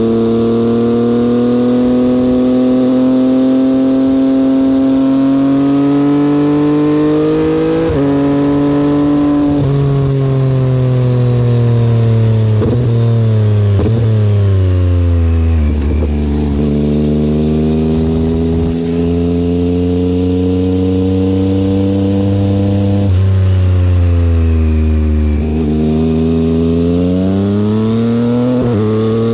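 A 2022 Yamaha XSR900's inline three-cylinder engine running through a Kelpi aftermarket exhaust on the move. The engine note climbs slowly under acceleration, drops in several quick steps around the middle as it slows or shifts, holds low for a while, then climbs again near the end.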